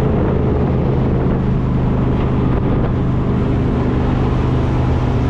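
Jetboat engine running steadily at speed, a constant low drone, with wind buffeting the microphone.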